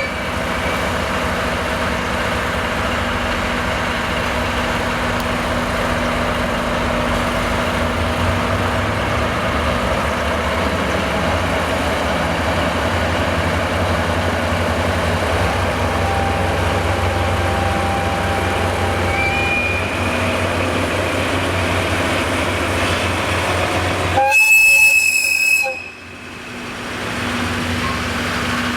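Diesel train running with a steady low engine rumble and rail noise. Near the end there is a short, loud horn blast.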